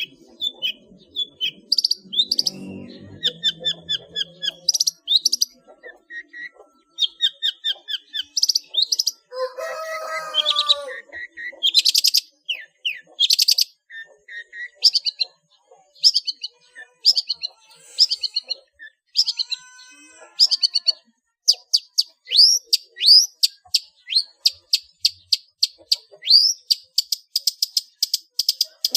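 Long-tailed shrike (cendet) singing a fast, varied song of chirps and trills packed with mimicked calls of other birds, with a lower, harsher burst about ten seconds in and a rapid ticking trill near the end.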